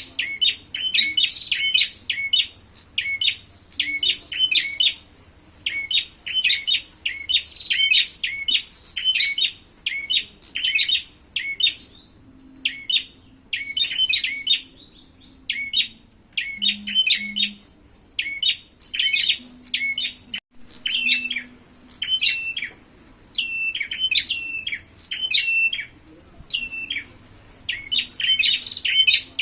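Prenjak (prinia-type songbirds) giving fighting calls: rapid, repeated chirping phrases in quick bursts, thinning out briefly in the middle before picking up again.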